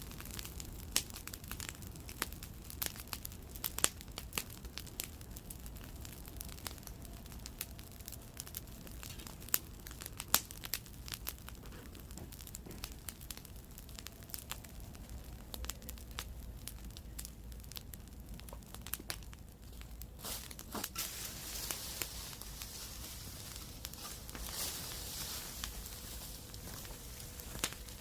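Wood campfire crackling, with irregular sharp pops and snaps over a low rumble; about two-thirds of the way in a steady hiss joins the crackle.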